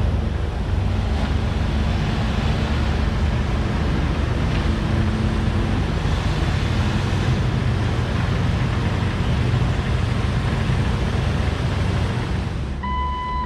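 Jeep Wrangler's 4.0-litre inline-six engine running as the Jeep is driven, a steady low rumble. Near the end an electronic beeping chime starts.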